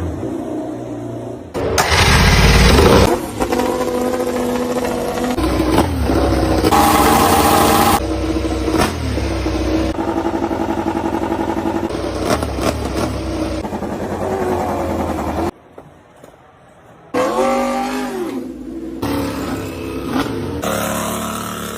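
MotoGP racing motorcycle engines (1000 cc four-cylinder four-strokes) being started and revved, pitch rising and falling, in a string of short shots that cut abruptly from one to the next, with a brief quieter gap past the middle.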